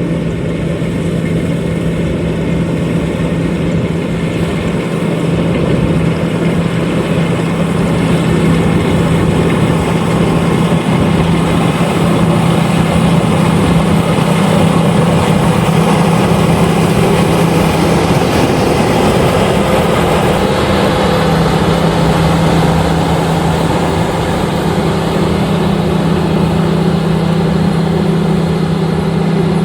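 LOVOL RG130EVO rice combine harvester running while it harvests, a loud steady engine drone with a strong hum over a wash of machinery noise. The hum wavers briefly about two-thirds of the way through, then settles again.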